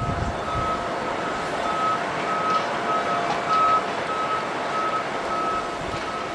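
A vehicle's reversing alarm beeping steadily, one short high beep about every half second, over a constant background of noisy rumble with a fainter steady hum.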